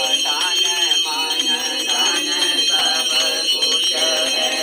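A puja hand bell rung continuously, its steady metallic ringing under voices singing a devotional song.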